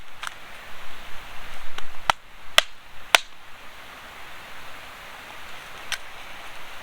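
Several sharp clicks or pops over a steady hiss, the loudest three coming between about two and three seconds in.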